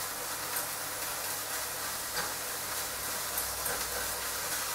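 Lean beef mince with onions, garlic and spices frying in a non-stick fry pan: a steady sizzle with a few soft scrapes of a plastic spoon stirring.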